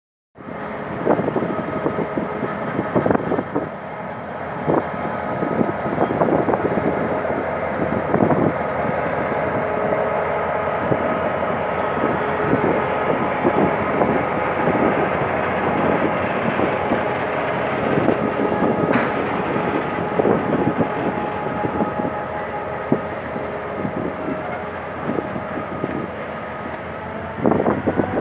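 GM GT22CW-2 diesel-electric locomotive hauling a passenger train past, its diesel engine running steadily under load as the train departs. The wheels clack irregularly over the rail joints and crossing as the coaches roll by.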